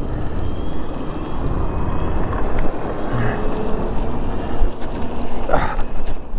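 Wind buffeting the microphone and tyre noise on a wet road while riding an e-bike, a steady low rumble.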